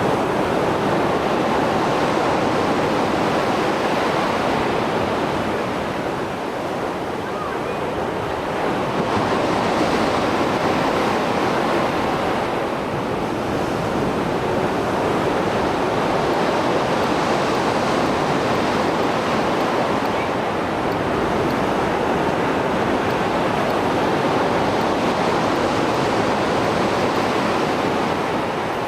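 Mediterranean sea waves breaking and washing on the shore in heavy post-storm surf, a continuous rush that swells and eases every few seconds, with some wind on the microphone.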